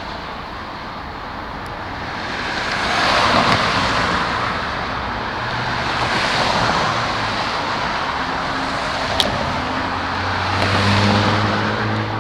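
Road traffic: cars passing one after another, making three swells of tyre and engine noise. A low engine hum comes in near the end, and there is a short sharp tick about nine seconds in.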